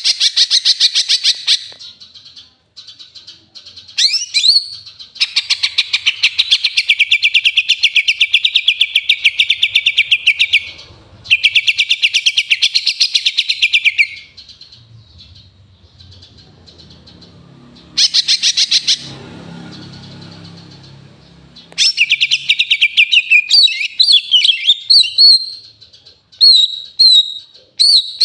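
Greater green leafbird (cucak ijo) singing long runs of very rapid, sparrow-like chirps, its song filled with house sparrow calls. The runs break off and restart several times, and near the end it gives short separate whistled notes.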